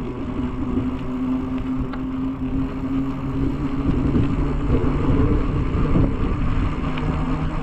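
Wind rushing over a bike-mounted camera's microphone and the tyres of a bicycle rolling along the road, with a steady hum that drops to a lower pitch about four seconds in.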